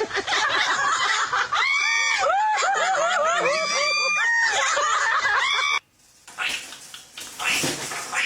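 A parrot calling in a long string of quick rising-and-falling squawks and chatter, cutting off abruptly about six seconds in. A few short, rough sounds follow near the end.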